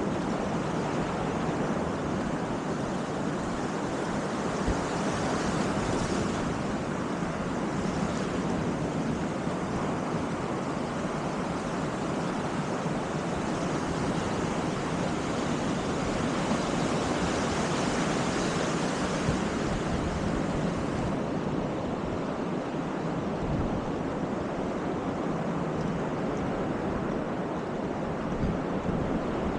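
Baltic Sea surf washing steadily onto the beach, with some wind.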